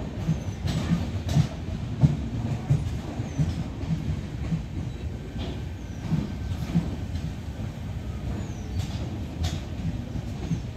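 Indian Railways LHB passenger coaches rolling slowly past on arrival: a low, steady wheel rumble with irregular clacks over the rail joints and a few brief, faint wheel squeals as the train slows for its stop.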